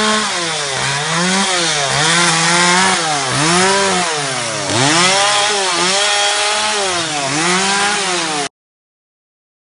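Chainsaw cutting through wood, its engine pitch dropping under load and picking back up again and again, about once a second. It stops abruptly near the end.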